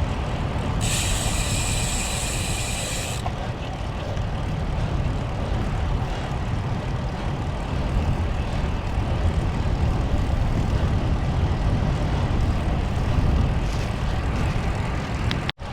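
Wind rumbling over the camera microphone with road and traffic noise while riding into a headwind on a road bike. About a second in, a high hiss starts suddenly, lasts a little over two seconds and cuts off abruptly.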